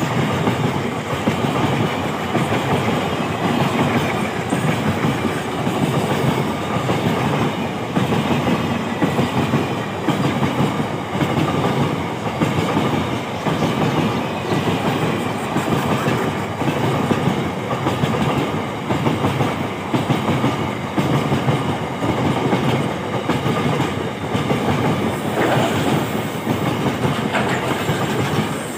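Empty container flat wagons of a freight train rolling past, a steady rumble with a regular clickety-clack of wheels over the rail joints.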